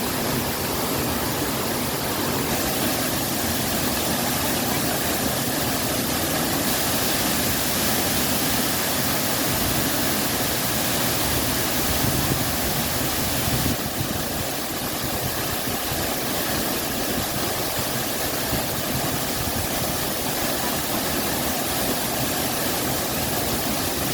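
Waterfall rushing and splashing into a pool, a loud, steady roar with a deep rumble underneath.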